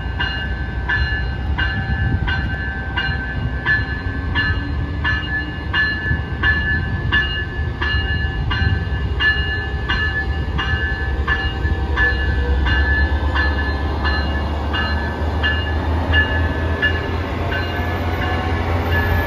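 Passenger train departing, its two ALC-42 diesel locomotives rumbling low, while a bell rings steadily about twice a second and fades out near the end.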